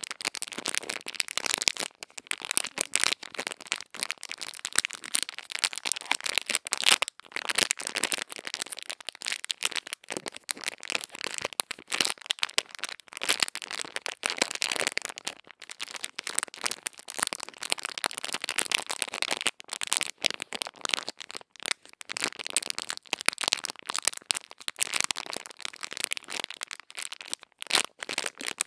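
Ear-cleaning ASMR: a continuous run of crisp, close crackling and scratching from tools worked against a microphone's ear, with brief pauses here and there.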